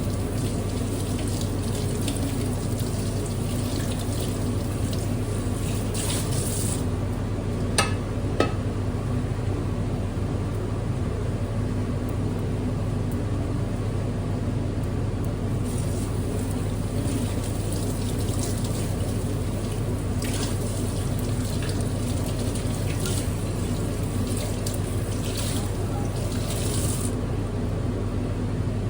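Water running into a sink with splashing that swells and eases, over a steady low hum. Two sharp clicks come about eight seconds in.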